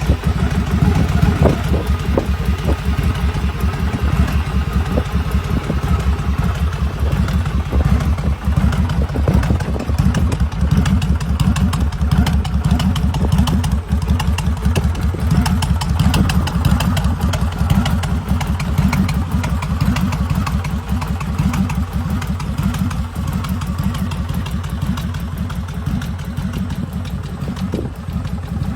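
2007 Victory Kingpin's V-twin engine, fitted with a Stage 2 performance kit, running at a steady idle with a pulsing exhaust beat.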